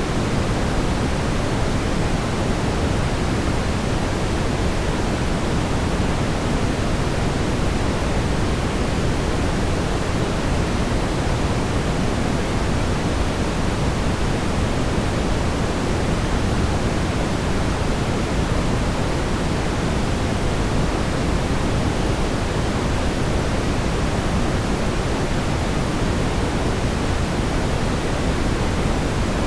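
Steady brown noise: an even, deep rumbling hiss, strongest in the lows and falling off toward the highs, with no change or events.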